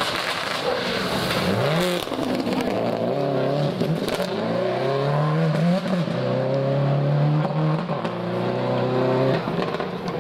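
Rally car engine revving hard on a gravel stage, its pitch climbing and falling back again and again as the driver works through the gears and lifts off.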